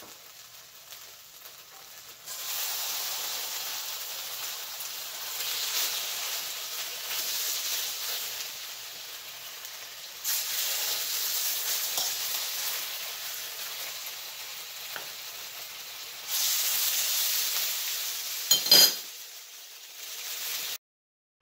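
Pieces of marinated chicken sizzling in a hot wok as they are put back in to brown. The sizzle starts about two seconds in and flares up again around ten and sixteen seconds as more pieces go in. There are a couple of sharp knocks near the end.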